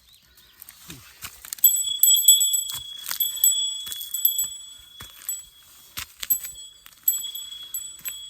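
A small metal bell jingling over and over, struck afresh many times in quick succession from under two seconds in. Sharp clicks and knocks fall among the rings.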